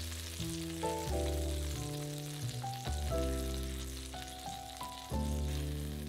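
Chicken thighs sizzling in hot oil in a frying pan, under background music with a bass line whose notes change about every second.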